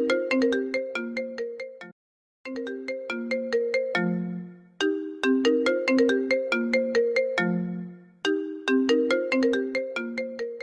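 Apple ringtone playing on a loop: a short melody of quick notes repeating phrase after phrase, with a half-second break about two seconds in.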